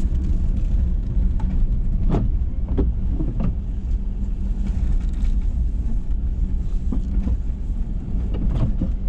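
Ford F-350 pickup with a Boss snow plow running steadily while clearing snow, a low rumble with a few short knocks about two to three and a half seconds in.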